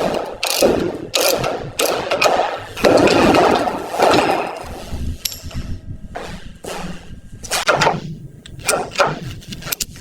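Hand tools working on metal: long scraping or brushing strokes, about one second each, mixed with sharp knocks and clicks.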